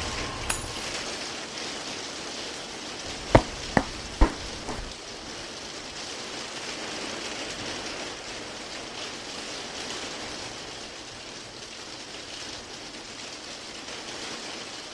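Steady rain, with three sharp knocks in quick succession about three and a half seconds in.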